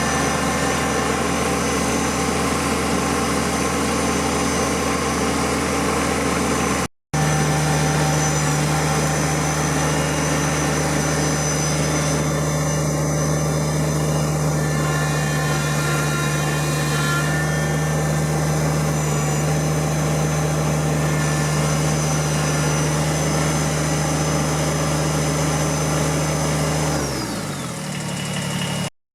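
Kubota tractor's diesel engine running at a steady speed, briefly cut out about seven seconds in; near the end the engine slows and its pitch falls.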